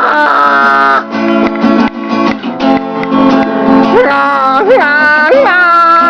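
Music: an acoustic guitar strumming, with a wavering melody line bending up and down in pitch entering about four seconds in.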